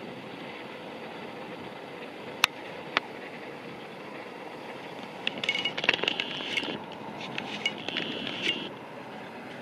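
Grand Central Class 180 Adelante diesel multiple unit passing at a distance, a steady running noise. There are two sharp clicks, and from about halfway through, a stretch of crackling and clicks.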